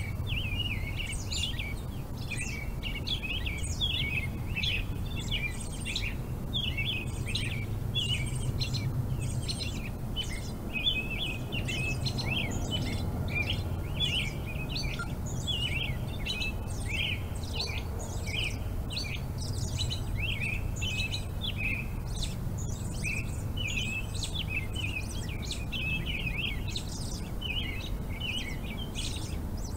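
Many small birds chirping continuously in rapid, overlapping calls, over a low steady rumble.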